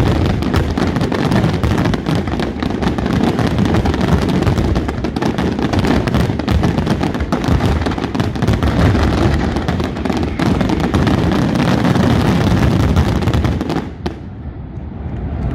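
Aerial fireworks shells going off in a dense, continuous barrage of rapid bangs and crackles, stopping abruptly about a second before the end.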